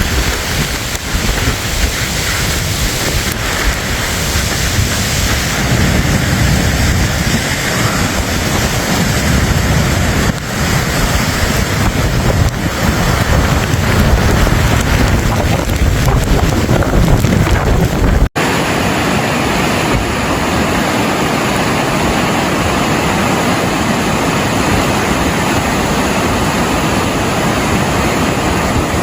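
Loud, continuous rushing storm noise of wind and water, with gusts buffeting the microphone. About 18 seconds in it cuts abruptly to a second recording with a steadier, thinner hiss.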